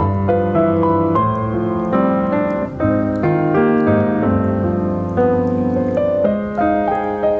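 Background music: a piano playing a flowing melody over sustained low notes.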